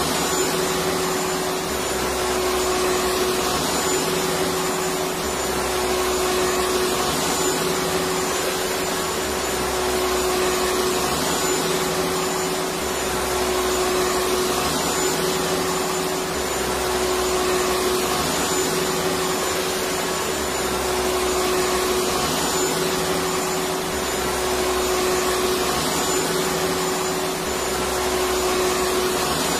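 Electric vacuum cleaner motor running continuously: a steady whooshing hum with a clear droning tone and a faint high whine. A slight low swell comes and goes about every three and a half seconds.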